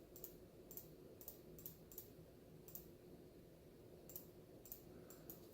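Faint, irregular clicking from working a computer's mouse and keys, a dozen or so clicks, over a faint steady hum.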